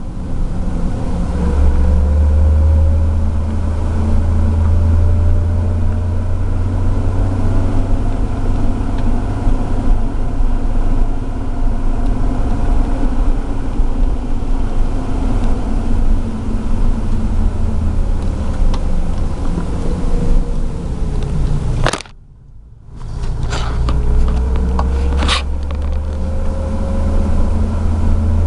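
Hyundai Tiburon on the move: a loud low drone with a fainter whine that slowly rises and then falls in pitch, the unidentified noise the owner wants traced. Near the end the sound dips sharply for about a second, then comes back with a few sharp clicks.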